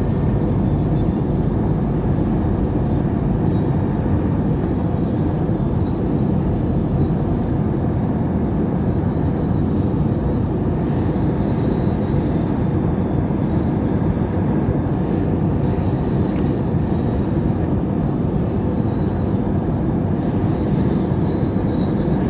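Airbus A321 cabin noise in flight: a steady, deep rumble of engines and airflow heard from inside the passenger cabin, with no change in level.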